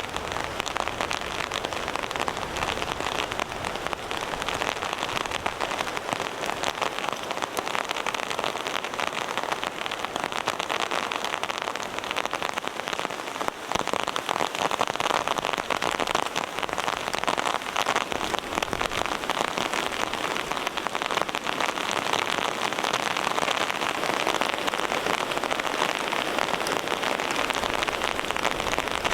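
Heavy rain falling steadily, a dense patter of drops with no let-up, briefly dipping about halfway through.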